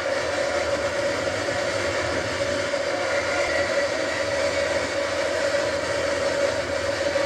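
A train running past or underway: a steady, even rumble with a constant mid-pitched drone.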